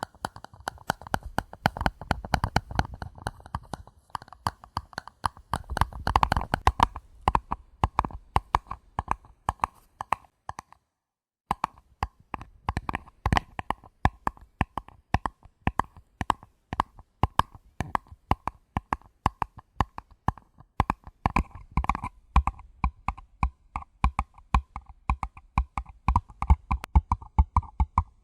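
Gentle, rapid tapping on paper cups: many quick light taps in irregular flurries, with a brief pause about ten and a half seconds in.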